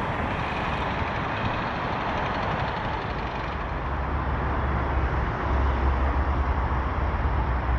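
Double-deck electric passenger train running on the line and fading as it pulls away, a steady rushing rumble; a deeper low rumble builds about halfway through.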